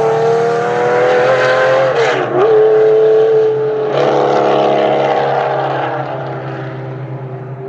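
Racing car engine at full throttle, rising in pitch, with a quick drop and recovery in pitch about two seconds in, then holding steady and fading toward the end.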